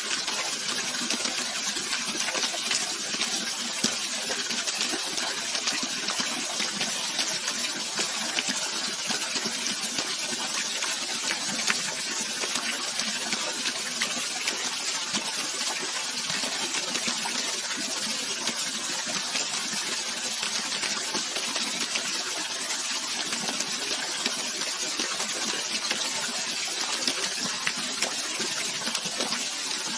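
Flowing water rushing steadily and evenly, a bright hiss-like rush with little deep rumble.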